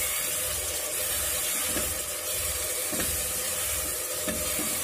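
Onion, chilli and spice masala with fresh garlic paste sizzling steadily in hot mustard oil in a pressure cooker, with a metal ladle stirring and scraping the pot a few times.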